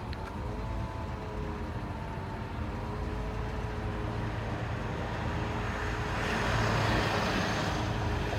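Ford F750 bucket truck's engine running with the PTO engaged, driving the hydraulics for the outriggers and boom: a steady mechanical hum with a whine whose pitch wavers slightly. A rushing hiss swells about six seconds in and fades near the end.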